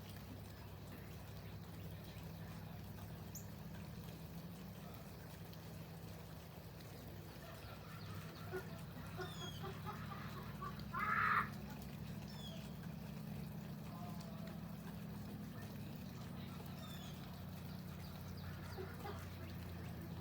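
Faint, scattered bird chirps over a steady low hum, with one louder short call about eleven seconds in.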